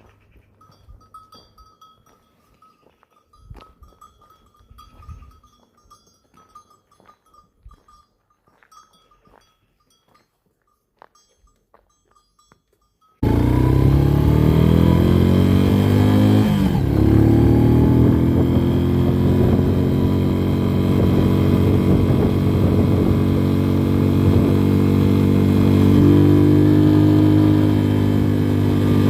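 A motorcycle engine running steadily while riding, its pitch shifting a little. It cuts in suddenly about halfway through, after faint quiet sounds with a thin steady tone and a few clicks.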